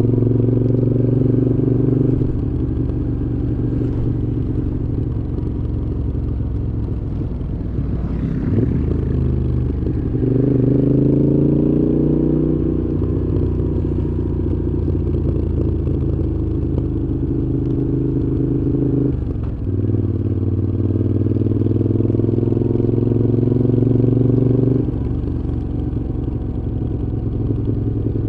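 Moto Guzzi V7's transverse V-twin running through a Mistral exhaust under way: steady cruising, the throttle closing about eight seconds in, then rising in pitch as it accelerates. A brief dip about two-thirds through fits a gear change, and the throttle eases off near the end.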